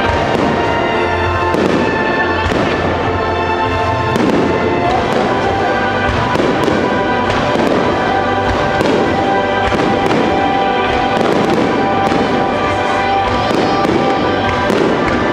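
Starmine fireworks barrage: a rapid, continuous run of shell bursts in close succession, with music playing throughout.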